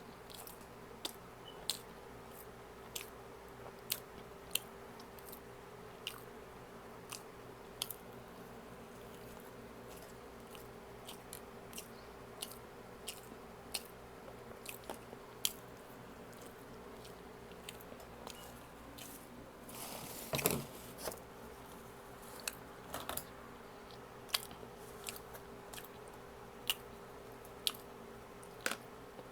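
A person chewing food close to the microphone: a steady run of small mouth clicks and smacks over a faint steady hum, with one louder, longer sound about two-thirds of the way in.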